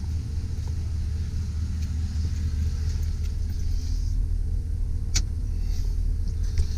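2005 Chevy Silverado 2500 HD engine idling with a steady low rumble, and a single sharp click about five seconds in.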